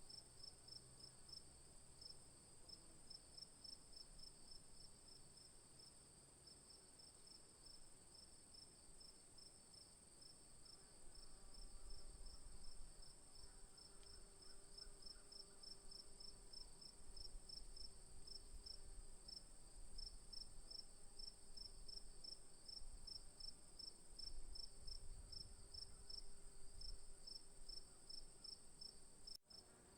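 Faint insects chirping steadily: a constant high whine under a fast, evenly pulsed high chirp. A faint low rumble comes and goes in the second half.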